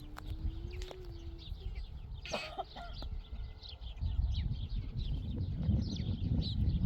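Birds chirping, many short high calls, with one louder call about two and a half seconds in. A low rumble grows from about four seconds.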